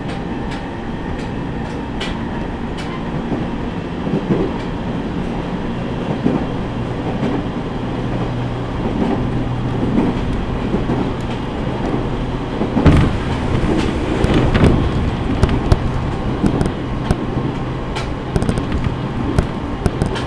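Running noise heard inside an E501 series electric train at speed: a steady hum with wheels clicking over rail joints. About thirteen seconds in, a sudden bang and a few seconds of louder rushing as an oncoming 415 series train passes.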